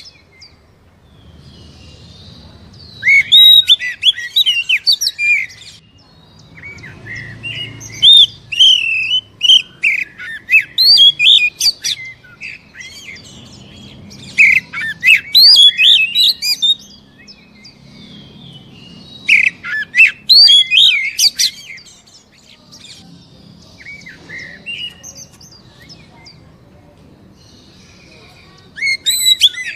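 Oriental magpie-robin (kacer) singing a loud, rapidly varied song of whistles and chirps. It comes in bursts of a few seconds, separated by quieter twittering.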